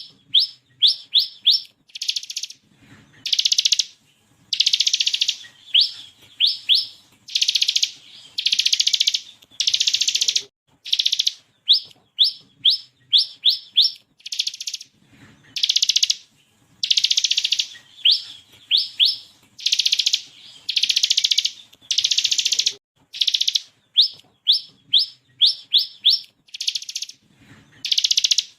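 Ciblek kristal (bar-winged prinia) singing: quick volleys of sharp upward-sweeping notes alternate with longer buzzy, rattling trills, the phrase repeating over and over.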